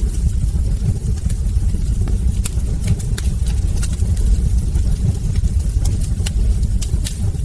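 Wood fire burning in a hearth: a steady low roar with frequent sharp crackles and pops from the logs, several coming close together near the end.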